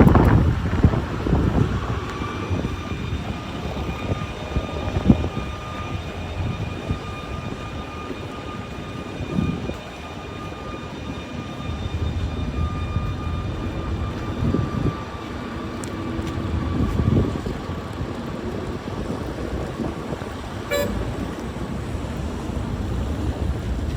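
Snowstorm street ambience: wind buffeting the microphone over rumbling city traffic, with a thin steady high tone that holds from about two seconds in until near the end.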